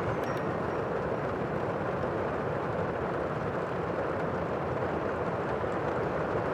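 Steady rush of the sea, an even wash of noise with no distinct wave breaks, and a few faint clicks near the start.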